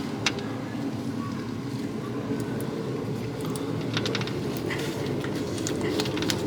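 A few light clicks and taps of parts and hand tools being handled while an engine idler pulley is fitted, irregular and a second or two apart, over a steady low background hum.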